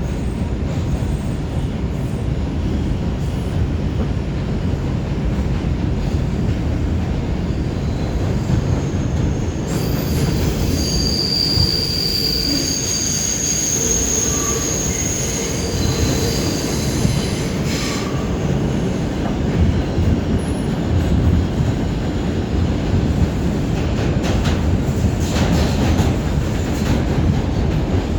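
New York City subway train (5 train) running at speed with a steady, loud rumble of wheels on track. Wheels squeal high-pitched for several seconds in the middle.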